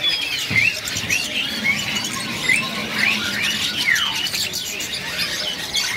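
Many caged songbirds chirping and calling at once, a dense run of short, quick rising chirps.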